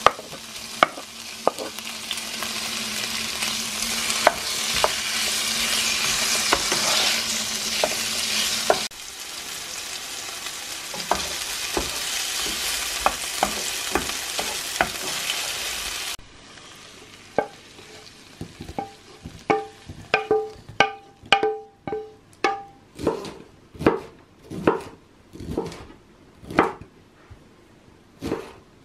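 Diced chicken and red pepper sizzling in oil in a frying pan, stirred with a utensil that clicks against the pan. A little past halfway it gives way to a knife chopping broccoli on a wooden cutting board: sharp knocks that come faster and more evenly, about two a second near the end.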